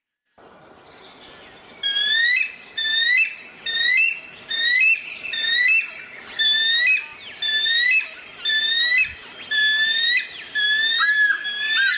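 A bird calling over and over: a short, rising whistled note repeated a little faster than once a second, starting about two seconds in. Fainter bird calls sound behind it.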